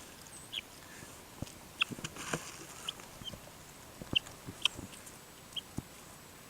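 Chickens feeding, giving scattered short, high chirps, with a few soft taps in among them.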